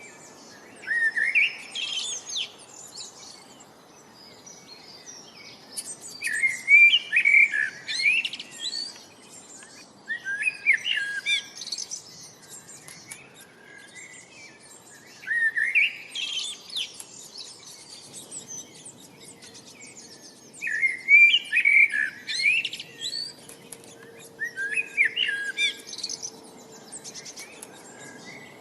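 A songbird singing a phrase of quick, rising chirps and trills about every four to five seconds, with short pauses between phrases.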